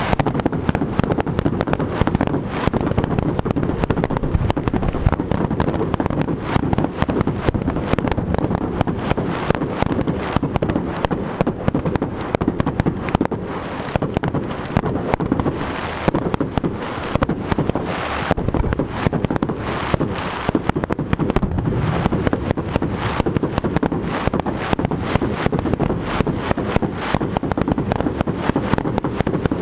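Fireworks going off in a dense, continuous barrage of bangs and crackles, with no pause.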